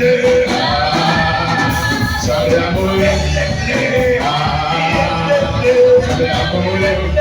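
Live church praise music: a band with a strong bass and steady beat, with voices singing over it.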